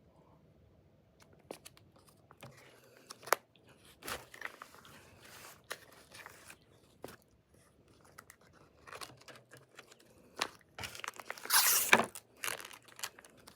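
MRE packaging being handled: crinkling and tearing of the pouches, in scattered clicks and rustles, with a longer, louder crinkling tear about eleven seconds in.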